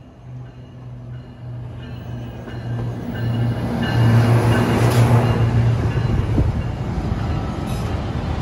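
Diesel locomotive of a passenger train approaching and passing directly beneath, its engine drone growing steadily louder and peaking about four to six seconds in, then giving way to the rumble of the passenger cars rolling by.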